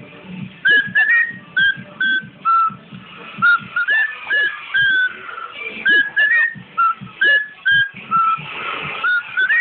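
Cockatiel whistling a run of short notes, about one or two a second, some held level and some sliding up or down in pitch.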